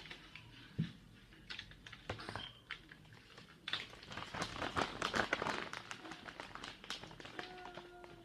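Close-up eating sounds: chewing and mouth clicks while eating a breakfast burrito, a dense run of small crackles that gets busiest a few seconds in.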